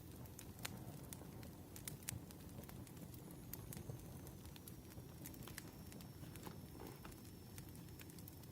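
Wood fire crackling, with scattered sharp pops over a low, steady rumble.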